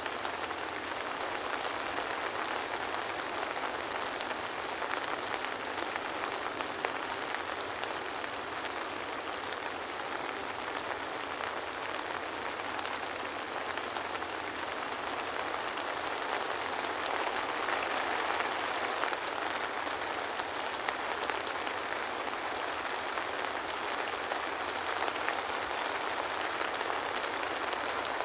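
Soft rain falling steadily, a dense even hiss of drops with small individual drop ticks and no thunder.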